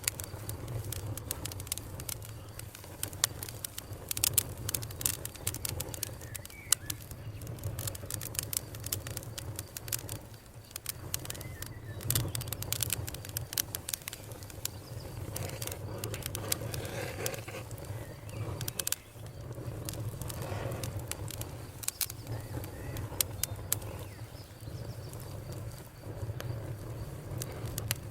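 Wood campfire burning, with frequent irregular sharp crackles and pops over a low steady rumble.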